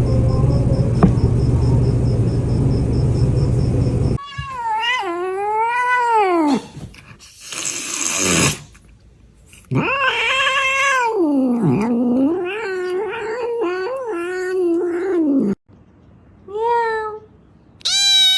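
Low rumbling noise for the first four seconds. Then a domestic cat yowls in long, wavering, drawn-out caterwauls, with a brief hiss between them, and finishes with two short meows.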